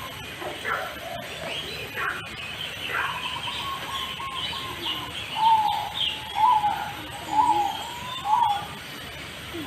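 Several birds calling: a fast, even stuttering trill runs on under scattered higher chirps, and in the second half four louder calls come about a second apart.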